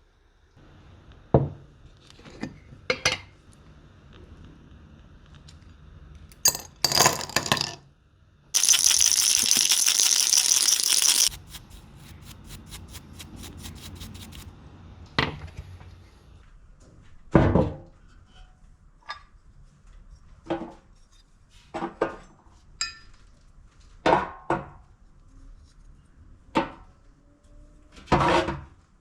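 Small metal parts clinking and knocking as they are handled, a dozen or so separate sharp knocks. Near the middle comes a loud steady hiss lasting about three seconds, followed by a quick run of even ticks.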